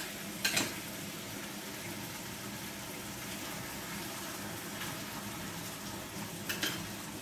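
Onions and chicken sizzling steadily in oil in a cast-iron camp oven on a gas burner. Metal tongs click sharply twice, about half a second in and again near the end.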